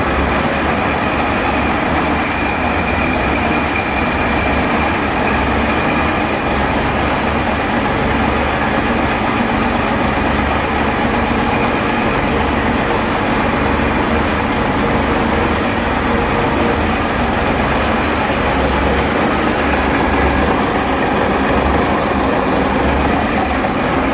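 Gardner 6LYT six-cylinder marine diesel, about 50 years old, running steadily at a constant speed.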